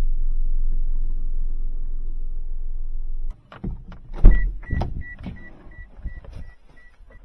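A small van's engine idles steadily, then stops abruptly about three seconds in. A few door-handling thumps follow, and then a warning chime beeps about three times a second.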